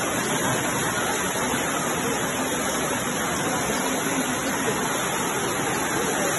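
Floodwater rushing along a road, a steady, unbroken rush of water.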